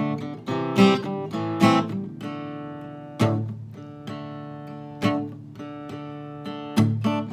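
Acoustic guitar playing a slow introduction: strummed chords, each left to ring before the next.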